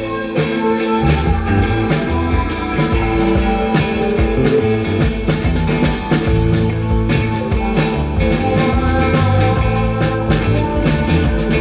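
Live rock band playing an instrumental passage of a psychedelic rock song, with electric guitar, bass and drum kit.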